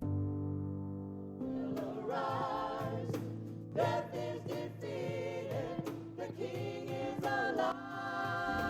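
Gospel singing with instrumental accompaniment: a held chord opens, voices come in about a second and a half in, and the phrase ends on long held notes.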